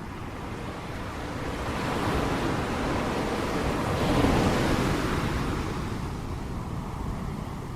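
Ocean wave breaking and washing in: the surf swells to its loudest about four seconds in, then slowly dies away, over a steady low rumble.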